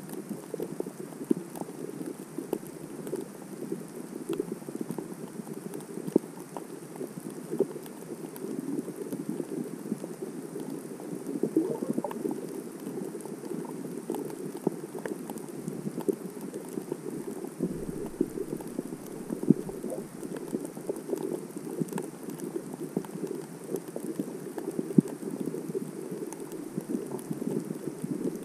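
The sea heard underwater through a GoPro's waterproof housing: a steady, muffled rush of water over a dense crackle of tiny clicks and pops.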